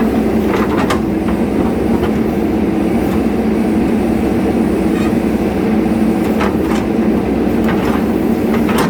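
JCB 3DX Super backhoe loader's diesel engine running steadily under load, with a few short sharp knocks from the working machine.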